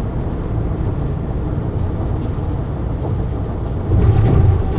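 Steady low road and engine rumble inside a car's cabin at highway speed, getting louder about four seconds in.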